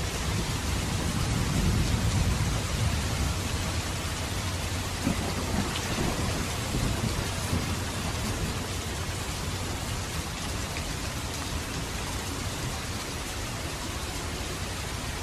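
Steady rainfall, with a low rumble of thunder in the first half that fades out about halfway through.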